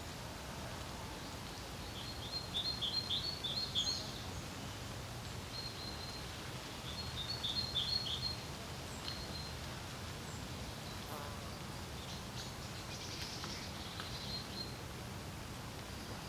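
Small songbirds singing in two quick, chattering phrases, then fainter calls near the end, over a steady low rumble of wind.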